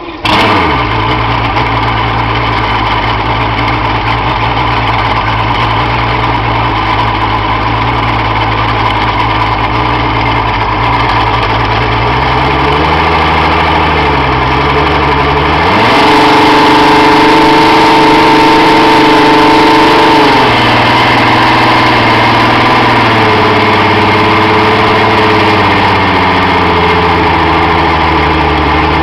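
Mariner Optimax 135 outboard, a direct-injection two-stroke V6, catching and starting after three months standing, then idling. About twelve seconds in it is blipped up briefly. From about 16 to 20 seconds it is held at a higher speed, then drops back to idle, with a smaller, slower rise later on.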